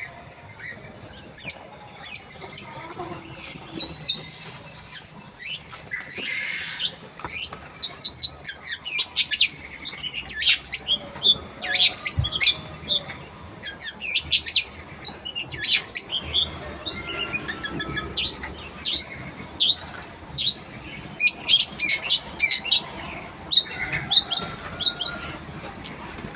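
Long-tailed shrike (cendet) singing in a long run of quick, sharp, high chirps and notes. The notes are sparse at first and come thick and loud from about a third of the way in.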